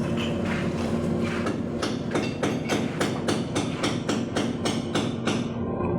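A fast, even series of knocks, about three to four a second, starts about two seconds in and stops shortly before the end, over a steady hum.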